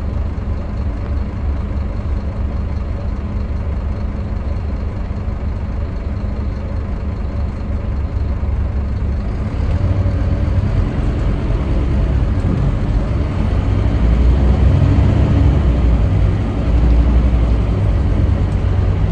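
Scania K310UB bus's diesel engine running with road noise as the bus travels, growing louder about halfway through.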